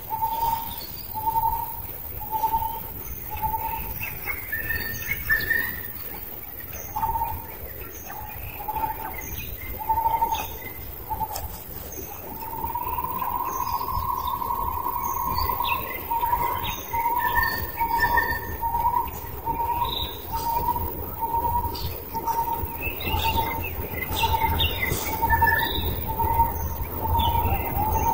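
Forest birds calling. One bird repeats a short note over and over, about one to two times a second, holding one longer note about halfway through, while others chirp higher.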